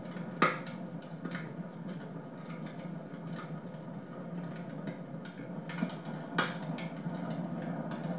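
Wood fire crackling in a fireplace, with irregular pops, the loudest about half a second in and another near six and a half seconds.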